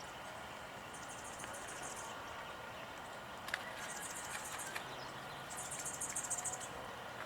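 An insect trilling: three high, buzzy trills about a second long each, separated by short pauses.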